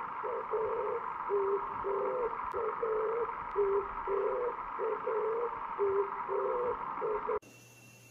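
A series of short, low hooting calls, about two a second, over a steady hiss. Both stop suddenly near the end.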